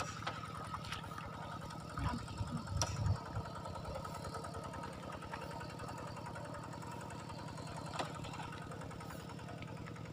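A small engine running steadily at an even speed, with a few brief louder sounds about two to three seconds in and a single click near the end.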